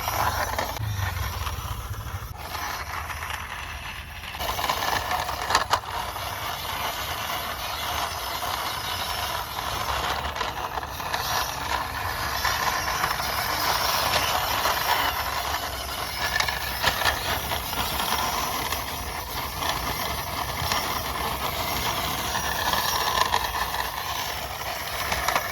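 A large plastic toy truck pushed by hand along a boundary wall, its wheels rolling and rattling.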